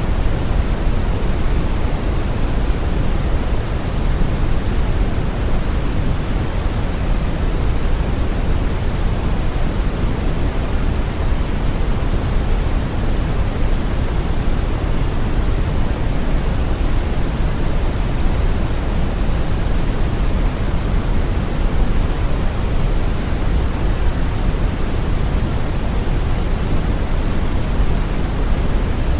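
Steady brown noise: a deep, even rumbling hiss with most of its energy in the low end, unchanging throughout.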